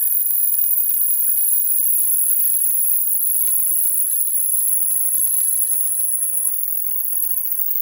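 A power tool running steadily with a high whine and a light rattle.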